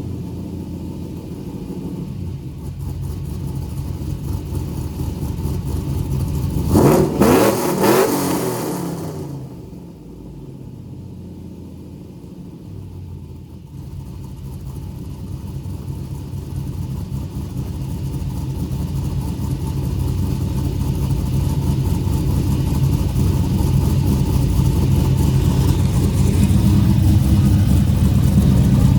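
2002 Pontiac Trans Am WS6's cammed LS1 V8 running through long-tube headers and a 3-inch true dual exhaust with X-pipe. It is revved sharply once about seven seconds in and drops back. After a quieter stretch the exhaust sound grows steadily louder toward the end.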